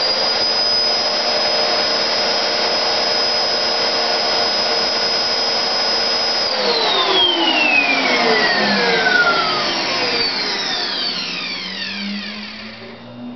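A Hoover, a Henry and an Electrolux vacuum cleaner running together with a steady high whine. About six and a half seconds in the power is cut and the motors wind down, several whines falling in pitch and fading over the next six seconds.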